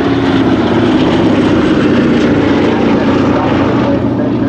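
Boeing B-17 Flying Fortress's four Wright Cyclone radial piston engines running in flight, a loud steady low engine note that swells a little through the middle.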